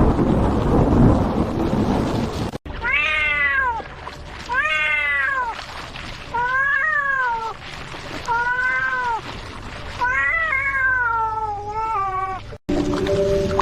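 A cat meowing: about six drawn-out meows, one every second or two, each rising and then falling in pitch. They follow a loud, even rushing noise that fills the first couple of seconds and cuts off abruptly.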